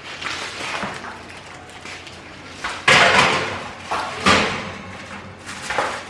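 An oven door being opened and shut as a foil-covered baking dish goes in, with sharp knocks about three seconds in and again about a second later.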